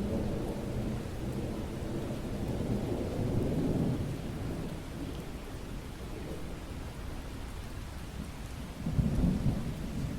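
Steady rain with rolling thunder: a low rumble through the first four seconds, then a second, louder rumble about nine seconds in.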